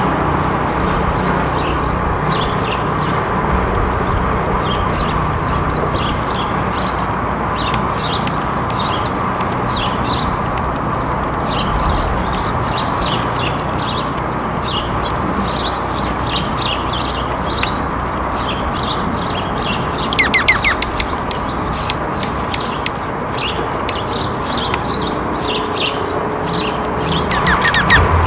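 Small birds chirping: a steady stream of short, high chirps, with a louder cluster of calls about twenty seconds in, over a steady low background hum.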